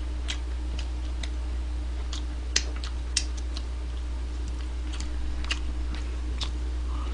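Mouth sounds of someone eating fried chicken: irregular wet clicks and smacks of chewing and finger-licking, over a steady low electrical hum.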